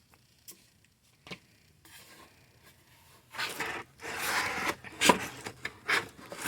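Cardboard box and packaging being handled: a few light clicks, then a spell of rubbing and scraping and a couple of sharp knocks near the end.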